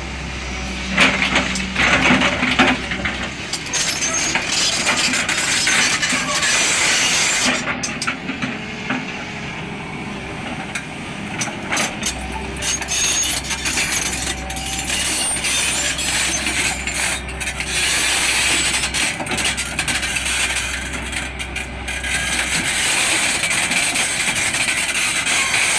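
Crawler excavator at work: a low engine drone that comes and goes under continual clanking, rattling and scraping.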